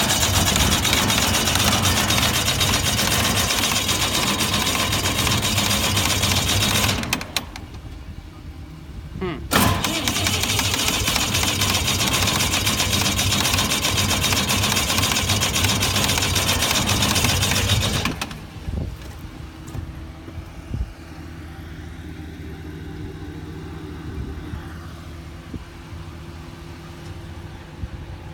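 Arc welding: the arc crackles and hisses in two long runs, each striking and breaking off abruptly, the second after a short pause. An engine runs steadily underneath and carries on alone after the second run stops.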